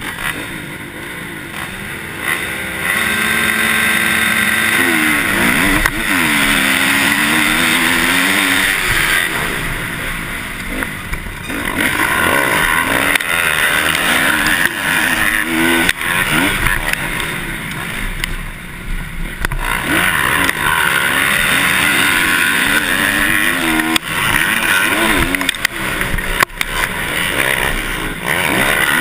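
Motocross dirt bike engines revving hard and easing off again and again, the pitch rising and falling as they run the track, swelling louder in stretches.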